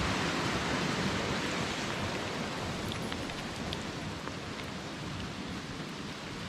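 Steady rush of rain and river water, easing slightly, with a few faint raindrop ticks about three seconds in.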